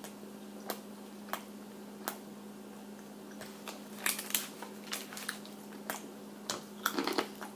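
A person chewing breaded chicken bites topped with bacon and cheese, close to the microphone: scattered wet clicks and smacks, busier about four seconds in and again near the end, over a faint steady hum.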